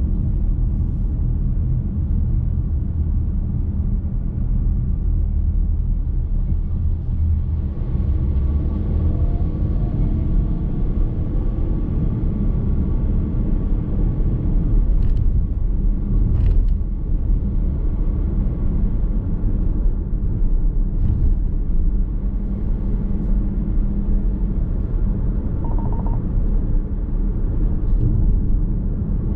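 Steady low rumble of a car driving along a road: tyre and road noise with the engine beneath, heard from inside the cabin. A few faint light clicks come about halfway through.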